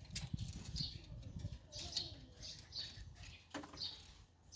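Small birds chirping in short calls about once a second, over the low scraping and crackling of a small knife cutting the fibrous husk of a sprouting coconut, with one sharp click near the end.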